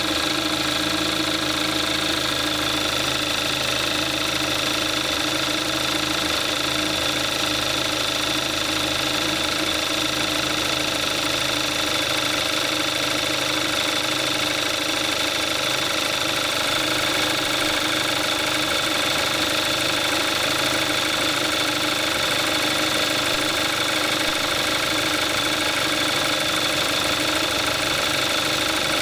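2014 Kia Forte5's 2.0-litre GDI four-cylinder engine idling steadily, a few minutes after a cold start, at about 22,700 miles on conventional 5W-20 oil.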